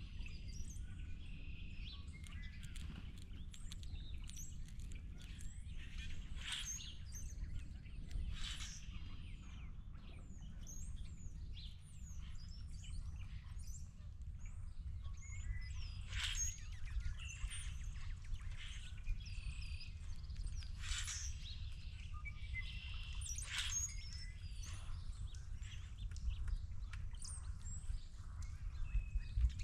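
Wild birds chirping and calling at intervals, with several louder, harsher calls, over a steady low rumble.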